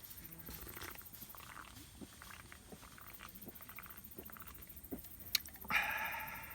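Light clicks and small handling noises, then a short hiss lasting about a second near the end.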